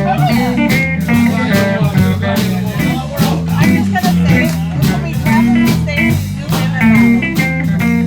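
Live band playing a blues number: guitar over bass and a drum kit keeping a steady beat.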